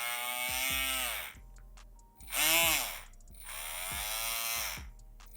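Brushless (BLDC) motor driving a small spray pump, whining and changing pitch as its speed is turned up and down on a servo tester. It winds down about a second in, revs up briefly and loudest around two and a half seconds, then rises and falls again before cutting out near the end.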